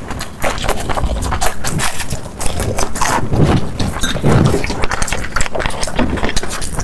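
Close-miked chewing of fried food: quick, irregular crunches and wet mouth clicks, with a couple of duller chews about halfway through.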